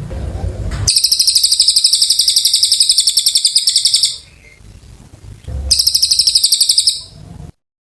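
A cililin songbird singing loud, rapid, high-pitched trills. One lasts about three seconds, and a shorter one follows after a brief pause. The sound cuts off abruptly near the end.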